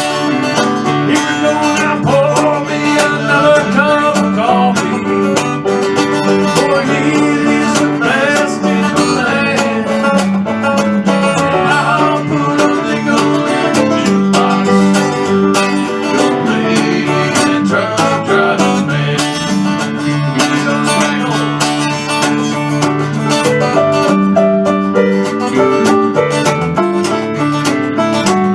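Instrumental break of a country song, with plucked banjo and guitar playing.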